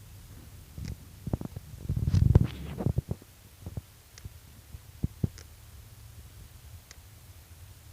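Steady low rumble with a burst of irregular knocks and rattles about one to three seconds in, then a few scattered clicks.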